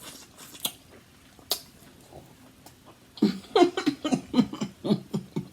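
Close-up eating sounds: a few sharp mouth clicks and smacks over the first three seconds, then a quick run of short vocal sounds that is the loudest part.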